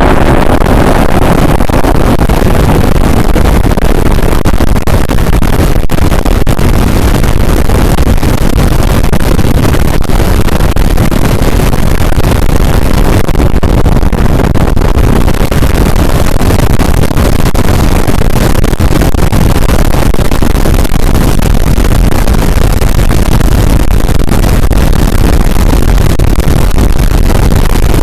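Harsh noise music: a dense, distorted wall of noise filling every pitch from deep bass to hiss, held at full loudness without pause.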